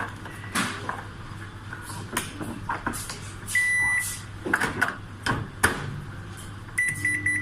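Microwave oven being handled and set: clicks and knocks from its door and keypad, one longer beep about halfway, then a quick run of short beeps near the end, over a low steady hum. Just before the end the oven starts up with a steady hum.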